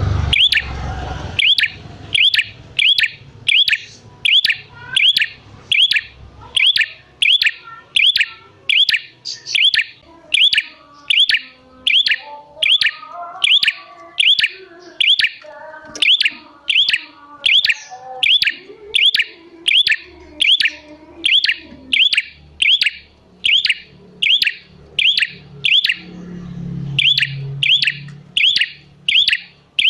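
Prenjak calling without a break: a steady run of short, sharp, high chip notes, about three every two seconds. Softer twittering underneath through the middle.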